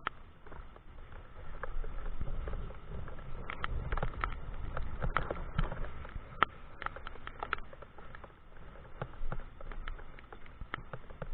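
Heavy rain, with drops hitting the microphone as irregular sharp ticks over a low rumble of wind and motion; the ticks come thickest through the middle.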